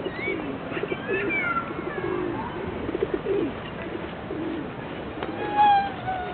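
Flock of pigeons cooing, with repeated low burbling calls throughout. A louder, drawn-out higher-pitched cry sounds about five and a half seconds in.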